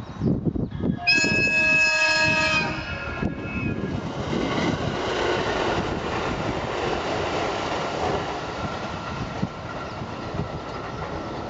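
521 series two-car electric train sounding its horn in one steady blast of about a second and a half, a warning at the whistle sign for a level crossing. It then passes close by with the rumble and clatter of its wheels on the rails, easing off near the end.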